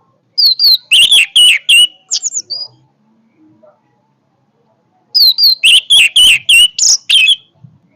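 Orange-headed thrush (anis merah) singing loudly in two bursts of song, each a quick run of five or six sharp notes. The first starts about half a second in and the second about five seconds in.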